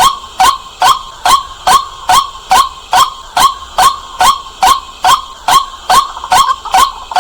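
White-breasted waterhen calling: one loud, short 'kwak' note repeated evenly, a little over twice a second.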